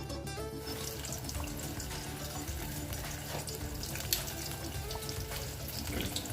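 Breadcrumb-coated chicken fillets frying in hot oil: a steady sizzle full of fine crackles and pops that starts about half a second in, with one sharper pop about four seconds in.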